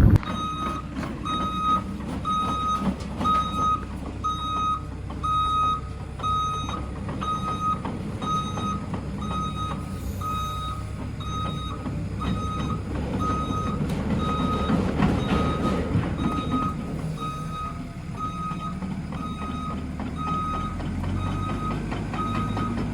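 A heavy-equipment backup alarm beeping steadily, about once a second, over a diesel engine running.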